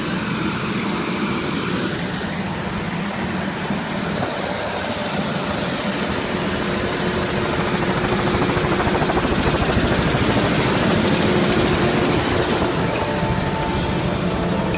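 Steady, fairly loud running noise of a vehicle or aircraft, a dense hiss-and-hum with a few faint steady tones in it, growing a little louder about halfway through.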